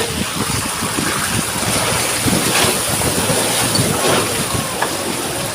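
Steady rushing noise with an uneven low rumble, as from riding in a moving vehicle, with wind buffeting the microphone.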